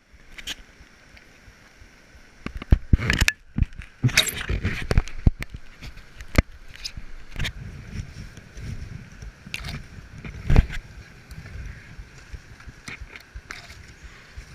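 Knocks and clatter of gear being handled around a kayak, thickest a few seconds in with two more single thumps later, over water sloshing and gurgling.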